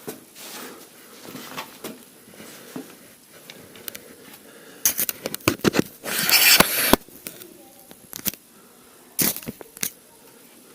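Person crawling through a cramped cave passage: scattered knocks and scrapes of body, clothing and gear against rock. The knocks bunch together with a longer scrape about six seconds in, and there is one more knock near the end.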